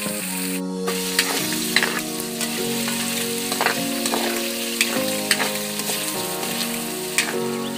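Pork pieces and garlic sizzling in hot oil in a wok, with a spatula clicking and scraping against the pan as they are stirred. Background music with held notes plays underneath.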